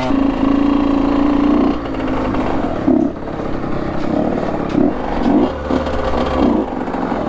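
Honda CR85 two-stroke dirt bike engine holding steady revs for about two seconds. It then drops back to a rougher, lower running, with several short throttle blips.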